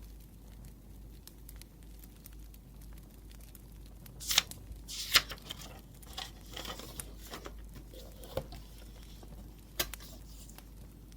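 Paper being handled with a crinkling, tearing rustle and a couple of sharp snaps about four and five seconds in, followed by a few lighter clicks. Burning firewood crackles faintly underneath.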